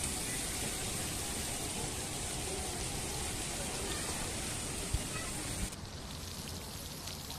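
Running water: a steady splashing rush that changes abruptly a little before the end to a thinner trickle with many small drips and splashes.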